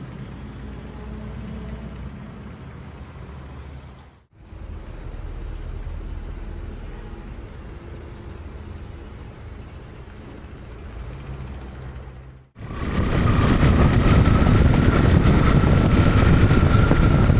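Motorcycle engine running across several quick edited shots, a steady low rumble, then in the last five seconds much louder riding noise: a dense wind rush over the engine with a steady high tone.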